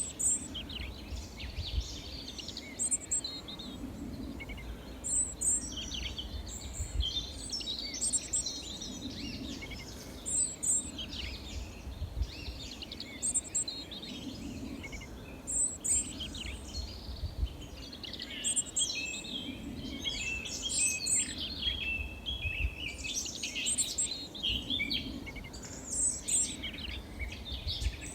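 Several small songbirds chirping and trilling, with a short, very high call repeating every two to three seconds, over a steady low rumble.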